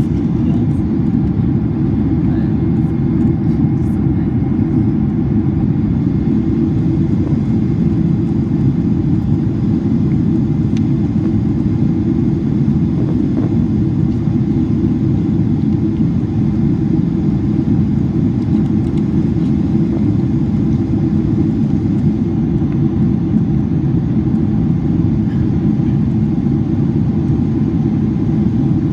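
Steady cabin noise of a Boeing 767-400ER in flight: a constant low rumble of airflow and engine drone that does not change.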